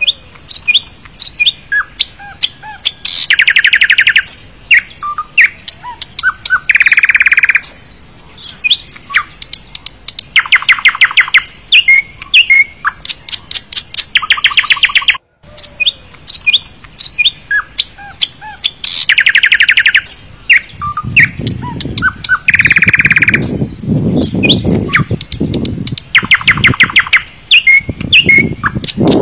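Birds chirping, with repeated bursts of rapid trills between short calls. The same stretch of birdsong repeats from about halfway through, so it plays as a loop. A low noise rises under it for a few seconds in the second half.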